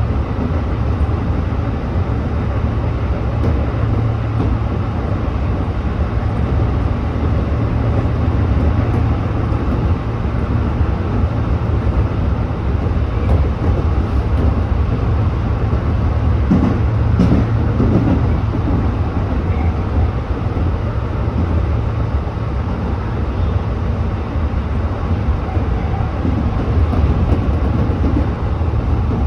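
Electric commuter train running between stations, heard from inside the front car: a steady low rumble of wheels on rail. A short rougher stretch with a faint pitched note comes about two-thirds of the way through.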